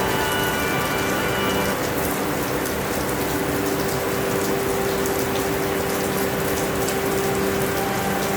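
Steady rainfall, an even hiss with the patter of drops. A steady low hum runs underneath, and a cluster of higher steady tones stops about two seconds in.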